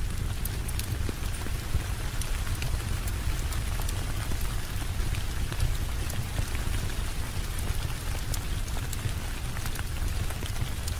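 Steady rainfall with a deep low rumble underneath. Small sharp crackles of a wood fire are scattered through it.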